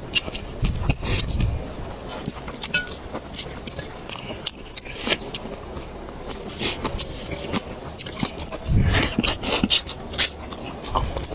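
Close-up eating sounds: irregular clicks, crunches and smacks of food being chewed, with a louder cluster about nine seconds in.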